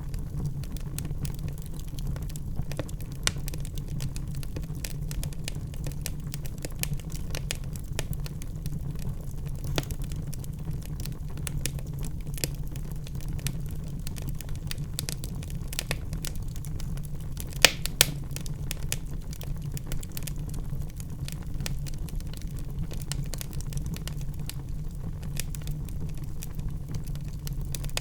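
Wood fire burning in a fireplace: many small crackles and snaps over a steady low rumble, with two sharp, louder pops a little past halfway.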